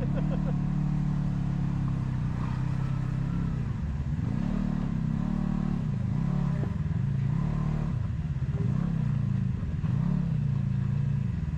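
Off-road vehicle's engine running and being revved, its pitch dipping and rising again several times in quick succession.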